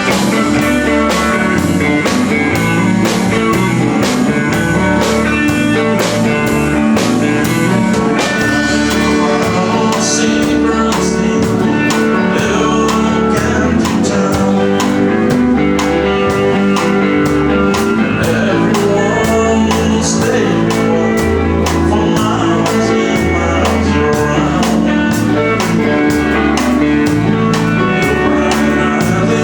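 Live country-rock band playing: electric guitar, bass and drum kit, with a steady beat.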